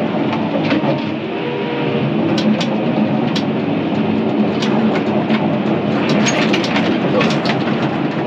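Crawler dozer's engine running under load as it pushes brush, with scattered sharp cracks, most of them in the second half, from the brush and a log being forced against the blade and tracks.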